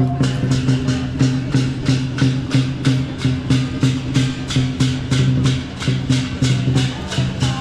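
Lion dance percussion: a big drum with clashing cymbals and gong beating a fast, steady rhythm of about four to five strokes a second.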